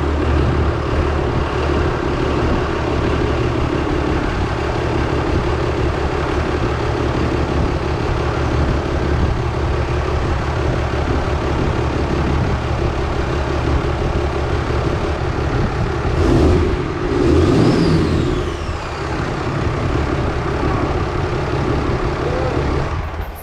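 Freshly installed 6.7-litre Cummins turbodiesel in a Ram 3500 running at a steady idle, briefly louder about sixteen seconds in, then stopping near the end.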